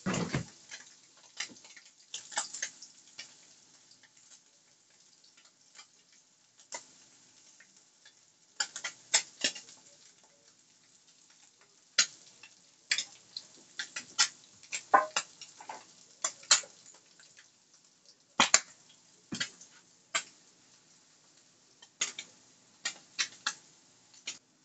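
Ham slices frying in a skillet, the grease giving off irregular sharp pops and crackles with quiet gaps between. There is a heavier thump right at the start.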